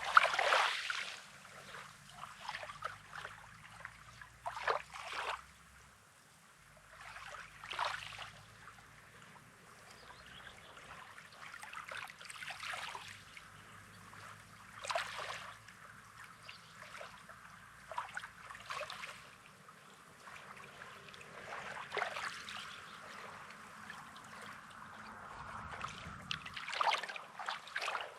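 Small sea waves lapping and splashing at the shoreline in irregular washes every second or two.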